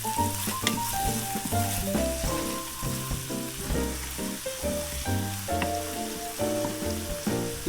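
Minced garlic sizzling gently in olive oil in a frying pan, under background music with a melody and bass line.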